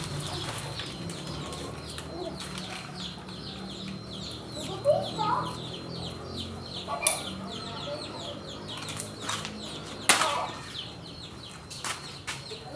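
Chickens clucking, with a dense train of quick high chirps throughout. Several sharp knocks, the loudest about ten seconds in.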